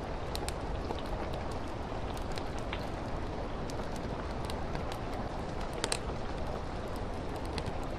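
Steady rain against a window, with a wood fire crackling: scattered sharp pops and snaps over the hiss, one louder pair of pops about three-quarters of the way through.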